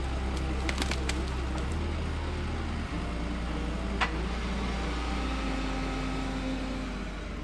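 Industrial wood crusher running with a steady low drone, with a few sharp cracks of wood breaking; the loudest crack comes about four seconds in.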